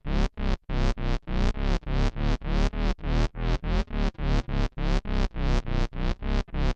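Bass guitar played through a Dunlop MXR MB301 Bass Synth pedal: a steady run of short synth-bass notes, about four a second, each one opening bright and quickly closing down like a filter sweep.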